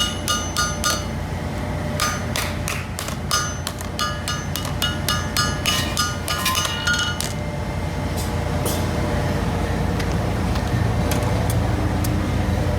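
Hand hammer blows on steel at the anvil, in quick runs of several strikes a second, each with a metallic ring. The strikes stop about seven seconds in, leaving a steady low rumble.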